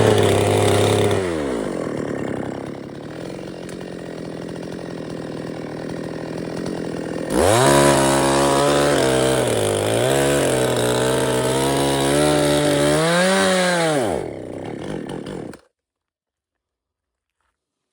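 Two-stroke chainsaw dropping from high revs to idle, idling for a few seconds, then revved hard again with its pitch dipping and rising. Near the end the revs fall and the sound cuts off abruptly.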